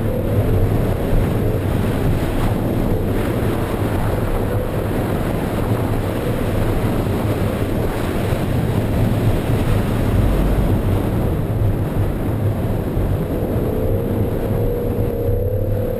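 BMW E46 M3's straight-six engine running at high revs in second gear, heard from inside the cabin, its note wavering up and down while the car slides. Under it, the hiss of tyres and water spray on the wet surface.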